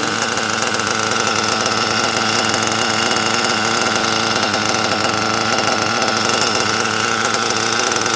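Group 21 (.21 cubic inch) model nitro engine in an RC buggy running steadily at a constant speed with a high, buzzing exhaust note through its tuned pipe, pre-warmed and holding an even idle.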